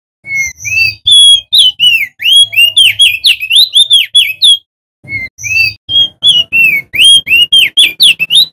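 Male opior jambul (crested white-eye) singing loudly: a fast, continuous run of short, clear whistled notes, each sweeping up or down. The run breaks off briefly about halfway through and then resumes.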